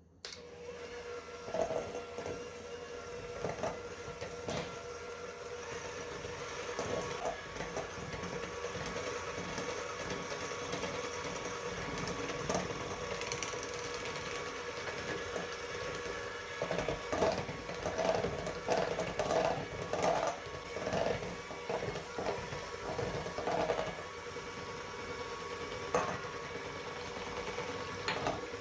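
Electric hand mixer running at a steady speed, with the beaters knocking irregularly against the bowl as they work a dough or batter. It starts abruptly at the beginning, and the knocking comes more often in the second half.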